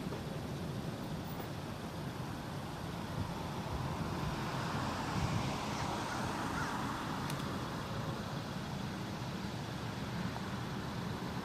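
Steady outdoor background noise, a low even rumble like distant traffic or wind, with no distinct events.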